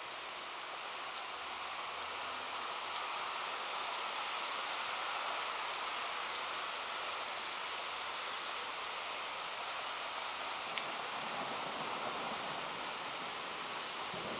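Steady rain falling during a thunderstorm, a continuous hiss with scattered sharp ticks of drops hitting.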